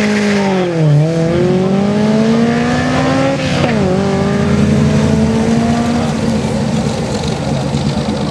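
Honda S2000's inline-four engine on an autocross run: the revs drop about a second in, climb steadily for a couple of seconds, dip sharply again about three and a half seconds in, then climb once more and fade as the car pulls away.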